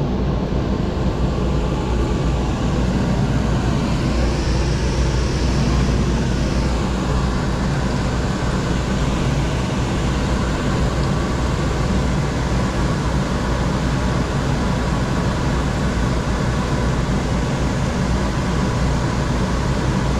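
Steady low rumble and road noise of a vehicle driving, without a break.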